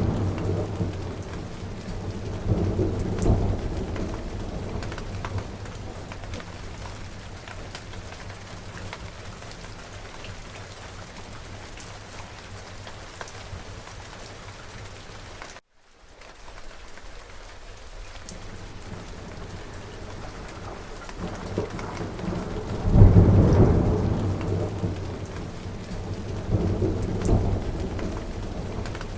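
Steady rain falling, with rolling thunder: a rumble dying away at the start, another about three seconds in, a loud roll about two-thirds of the way through and a smaller one near the end. The sound drops out for an instant about halfway through.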